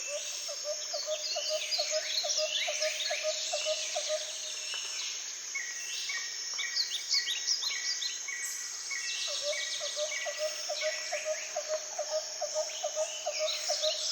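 Forest ambience of many birds calling at once over a steady insect hiss. A low, rapidly pulsing call repeats twice, for about four seconds each time, and in between a run of short, evenly spaced whistled notes.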